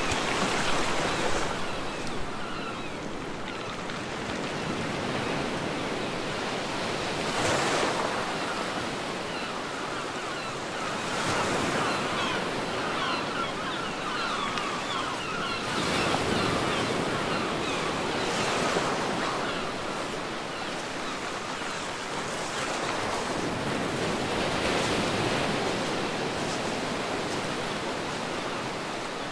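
Ocean waves breaking on a beach, a steady wash that swells every few seconds as each wave comes in, with the hiss of foam.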